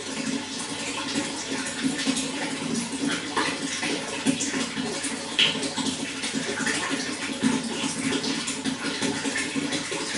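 Running water splashing and gurgling steadily, with many small splashes dotted through it.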